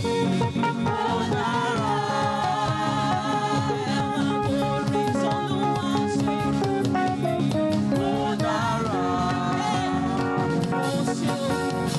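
Gospel praise music: voices singing over a band with drum kit and guitar.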